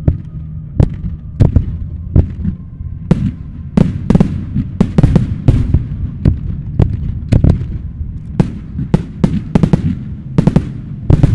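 Fireworks shells bursting in a rapid, irregular series of about twenty sharp bangs, coming thicker from about four seconds in, over a steady low rumble.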